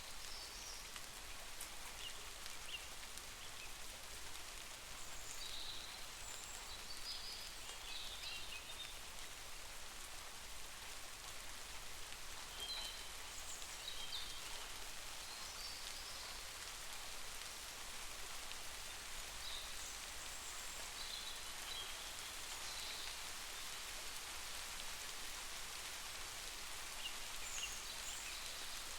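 Steady rain falling with an even hiss. Short high-pitched chirps come and go over it.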